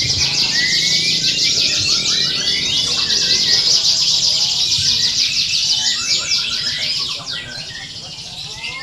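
Many contest canaries singing at once: dense, overlapping rapid trills and chirps that ease off a little near the end.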